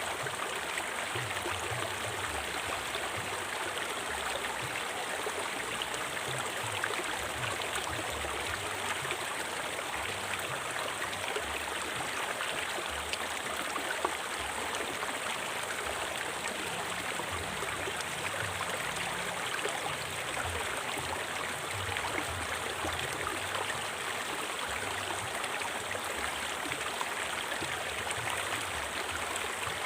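River water flowing and splashing steadily: an even rushing with small gurgles and splashes.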